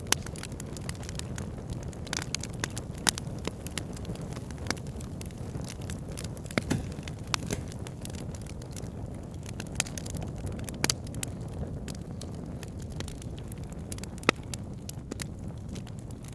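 Fire burning in a fireplace: a steady low rush of flames with irregular sharp crackles and pops, a few louder snaps standing out.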